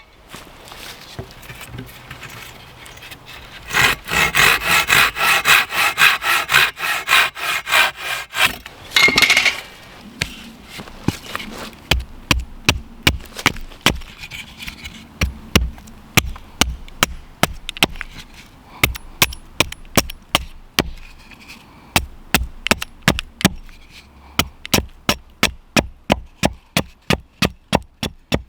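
Hand saw cutting through wood in quick back-and-forth strokes for about five seconds, then a long run of sharp wooden knocks, about two a second.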